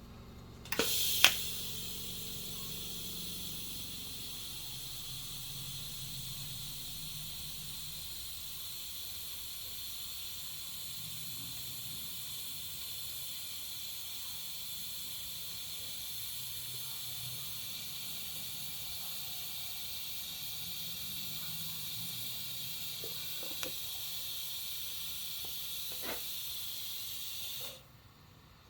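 TIG welding arc, a steady hiss that starts with a sharp crack about a second in, holds an even level for over twenty seconds, then cuts off suddenly near the end as the arc is broken.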